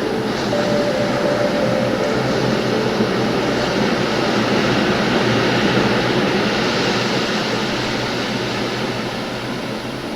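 Ocean surf as a steady rushing wash that swells in the middle and fades toward the end, with a few held music tones dying away in the first few seconds.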